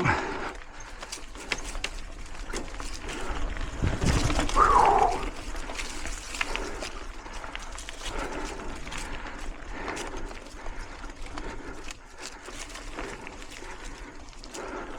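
Mountain bike climbing a switchback on dirt singletrack: tyre and chain noise with scattered clicks, and the rider breathing hard from the effort. About four seconds in there is a louder rush with a short falling vocal sound.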